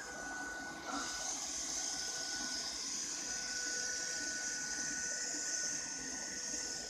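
Ropo Glass robot vacuum running: a steady high hiss from its fan with a thin constant whine, growing louder about a second in.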